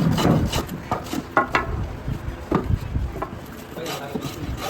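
A cricket bat being shaped by hand: irregular knocks and scraping of tools on the wood, with a voice or two among them.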